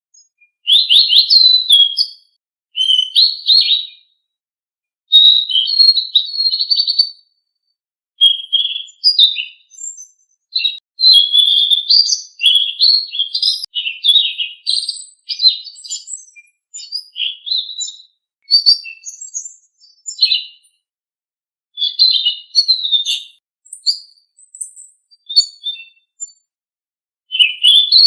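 Selendang Biru songbird singing: fast, varied chirping and whistled phrases of one to two seconds each, with short pauses between them.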